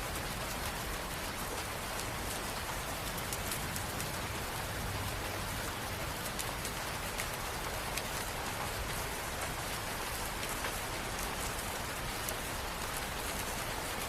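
Steady rain falling, with fine patter of individual drops hitting a surface.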